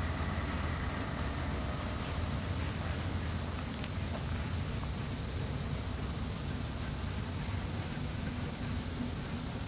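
Low, steady rumble of a distant freight train, under a constant high-pitched buzz of insects.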